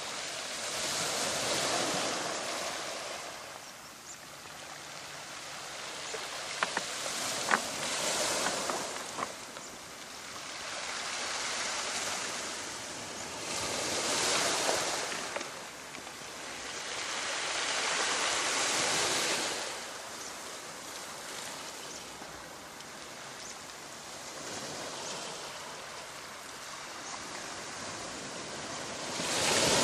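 Waves washing in on a shore: a steady rushing hiss that swells and ebbs every few seconds as each wave breaks and draws back. A few sharp clicks stand out about seven seconds in.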